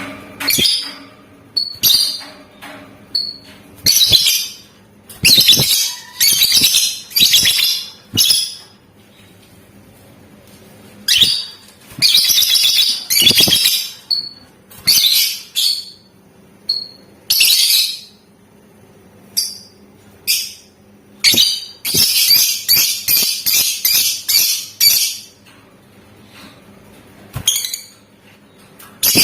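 Lovebird calling in shrill, rapid chattering bursts separated by short pauses, with a dense run of quick calls about three-quarters of the way through. A faint steady hum lies underneath.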